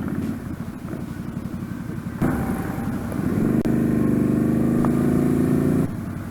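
Motorcycle engine running under way. It grows louder about two seconds in, holds a steady, stronger note through the middle, and eases off near the end.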